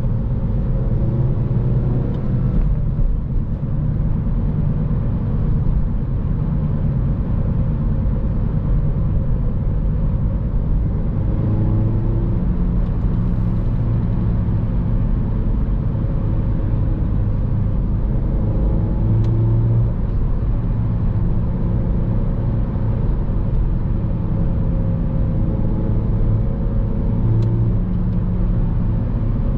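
2014 Honda Civic Si's 2.4-litre four-cylinder engine and road noise heard from inside the moving car, the engine's pitch rising and falling a few times as the car is driven through the manual gears.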